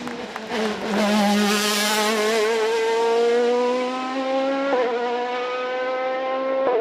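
Race car engine at full throttle on a hill climb, its pitch climbing steadily as it revs, with quick upshifts about five seconds in and again near the end.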